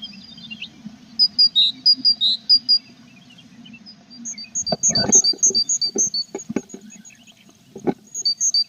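A tit calling in quick series of short, high two-pitched notes, about three or four a second, in several bursts. From about halfway, a run of soft knocks and scrapes, like a bird moving about in the nest box.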